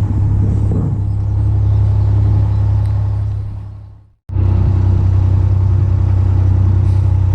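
Narrowboat's diesel engine running steadily at cruising speed, a deep even hum. The sound fades out about three seconds in and cuts back in abruptly just after four seconds.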